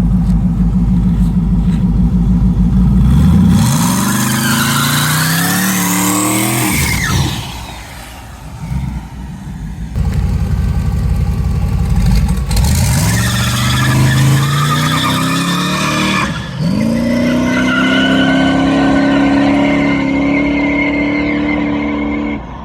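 Twin-turbo Camaro engine making a drag-strip pass: a pulsing low rumble at first, then revs climbing in pitch with drops at gear changes about seven and sixteen seconds in, and a steady high note held near the end before it cuts off. The engine keeps going up and up as the street tyres spin, with almost no traction by the driver's account.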